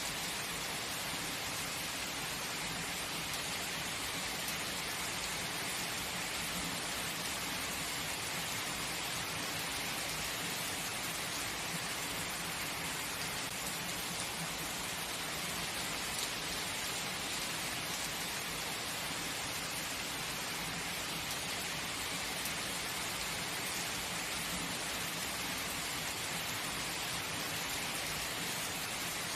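Steady heavy rain falling on surfaces, an even hiss of drops.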